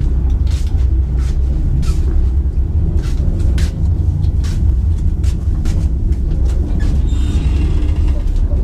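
Passenger train coach rolling slowly out of a station, heard from inside the compartment: a steady low rumble with frequent sharp clacks of the wheels over rail joints and points.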